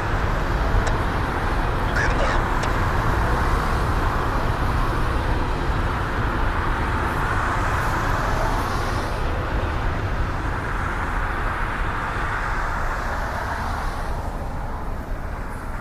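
Steady low vehicle rumble with an even rushing noise over it, easing slightly near the end.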